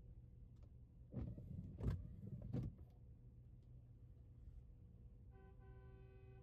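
Low steady hum of a car's cabin on the road. About a second in, a short mechanical whir with several knocks lasts about a second and a half. Near the end comes a steady pitched tone, briefly broken.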